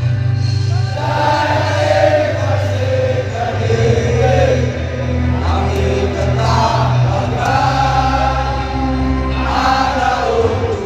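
Many voices singing a football club's victory anthem together over a heavy, steady low rumble.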